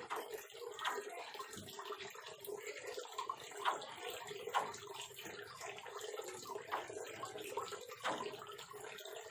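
Water splashing, with many short sharp sounds scattered through it and a steady hum underneath.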